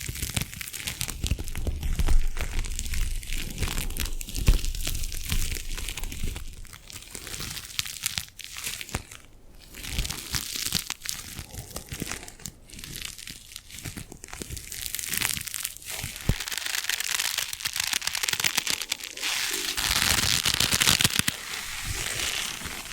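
Close-miked crinkling and crackling of something being handled, dense and continuous, with a few soft low thumps in the first few seconds and a brighter, louder stretch near the end.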